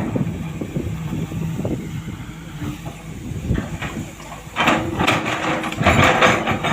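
Heavy truck engine running steadily with a low hum. In the second half a louder noise swells up twice over it.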